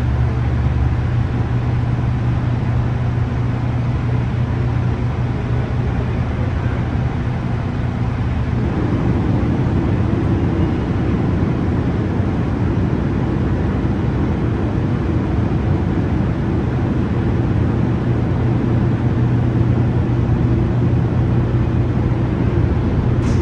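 Semi-truck's diesel engine running steadily with a low drone. About eight seconds in, its sound changes as a fuller, higher layer joins the drone.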